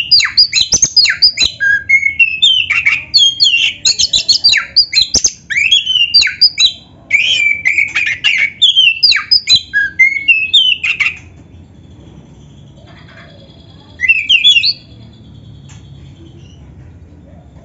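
Oriental magpie-robin (black-breasted kacer) singing a rapid, varied run of loud whistled and chattering phrases for about eleven seconds, then breaking off with one short phrase near the end; the song is one filled with mimicked canary phrases.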